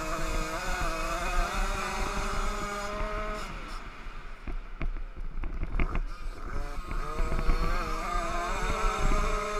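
Small 50cc youth motocross bike engines running, holding a steady pitch, then fading and dropping off about four seconds in before climbing again toward the end. Scattered short knocks run through it.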